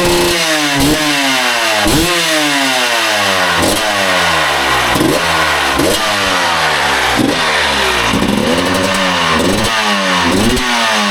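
Husqvarna 300 two-stroke dirt bike on its stock exhaust, revved in quick throttle blips about once a second, each rising sharply and falling back to idle. About eight seconds in comes one longer, slower rev.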